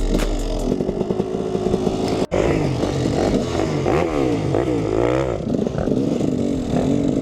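Dirt bike engine revving up and down, its pitch rising and falling repeatedly. The sound cuts out for an instant about two seconds in.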